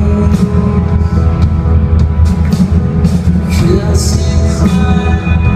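Live rock band playing loud and steady: a heavy bass and sustained guitar chords under regular drum and cymbal hits.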